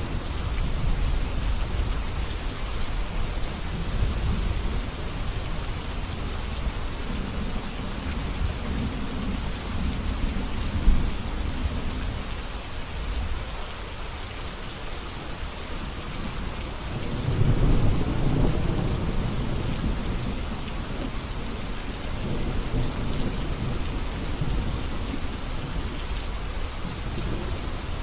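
Steady rain falling, with low rolling thunder that swells about two-thirds of the way through.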